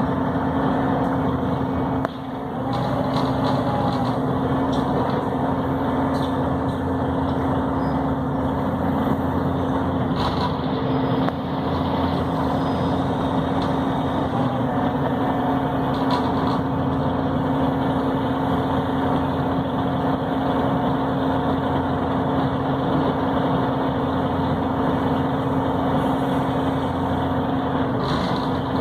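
Volvo B7RLE city bus's six-cylinder diesel engine and drivetrain heard from inside the cabin while driving: a steady drone mixed with road noise, with a short dip in level about two seconds in.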